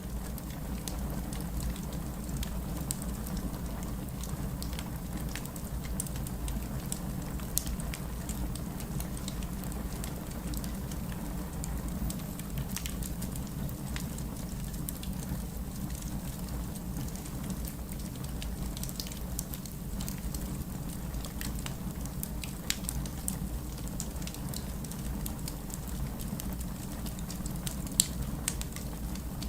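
Wood fire crackling with scattered sharp pops, over a steady low rumble of rain.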